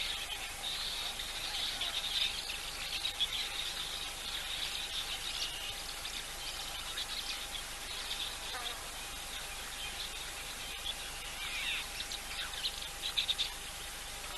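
Bush ambience of small birds chirping and insects trilling, in repeated high bursts, over a faint steady hum.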